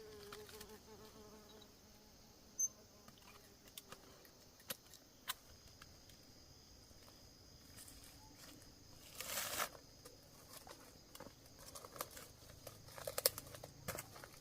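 Scattered light snaps and crackles with a longer rustle about nine seconds in and another cluster near the end, over a faint steady insect drone.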